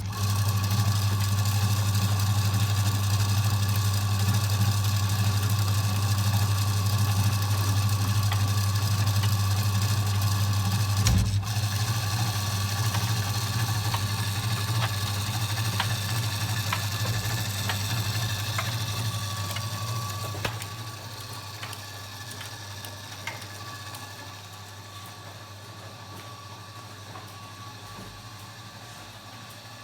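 Kenwood washing machine running with a steady low hum that fades gradually over the second half.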